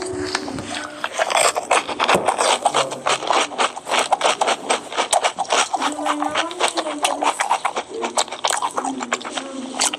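Close-miked mukbang eating of ice cream and cake: a rapid run of wet mouth clicks and smacks, with spoon scrapes, several a second, and a few brief low hums.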